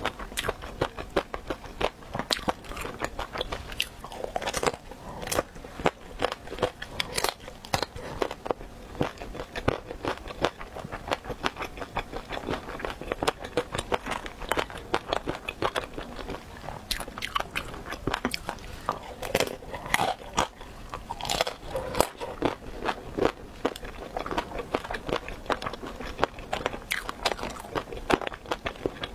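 Close-miked eating of crispy fried dumplings: a steady stream of crunchy bites and chewing, full of sharp irregular crackles.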